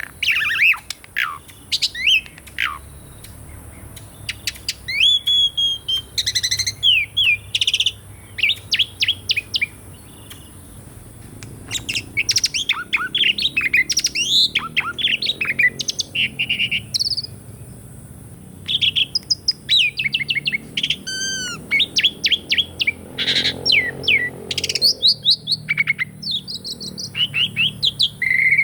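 Asian pied starling singing a varied song of quick whistles and chirps, in rapid runs of repeated notes broken by short pauses.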